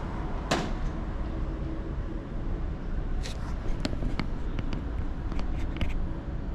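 Steady low rumble of wind and road noise from riding a bicycle, with a sharp knock about half a second in and a scatter of short clicks and rattles a few seconds later.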